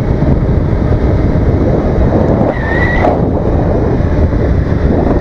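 Motorcycle on the move: engine running under heavy wind rush on the microphone. A brief high tone sounds about midway.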